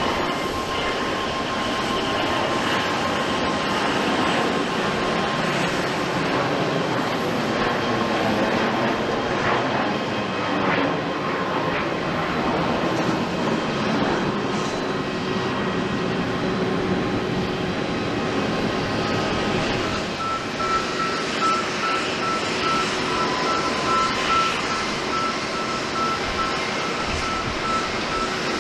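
Jet airliner engines running: a steady rushing noise with a faint high whine.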